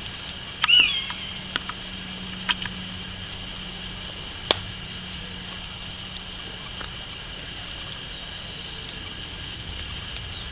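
Woodland ambience: a steady high drone of insects, a short bird call about a second in, and a few sharp clicks, the loudest about four and a half seconds in.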